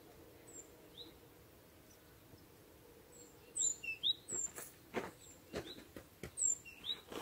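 Small birds chirping with short high calls, a few at first and more often in the second half. From about three and a half seconds in, footsteps crunch on snow about every two-thirds of a second and are the loudest sound.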